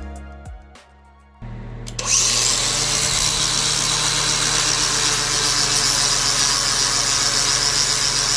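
A power tool starts up about a second and a half in and then runs steadily with a hum and a hiss. Quiet music fades out before it starts.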